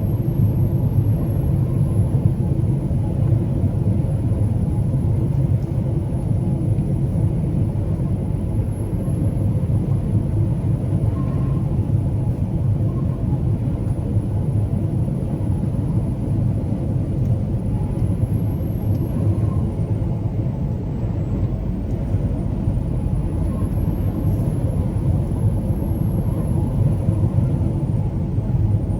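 Truck on the move: a steady low rumble of engine and road noise, with a faint high-pitched whine above it that wavers slightly in pitch.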